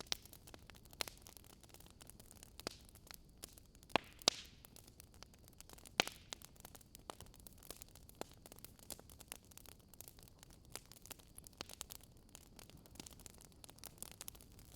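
Fireplace fire crackling: irregular snaps and pops over a low steady hiss, with a few louder pops about four and six seconds in.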